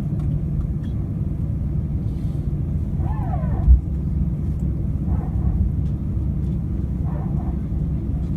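Steady low rumble inside an Airbus A319's cabin as the airliner taxis, with one short low thump a little past the middle.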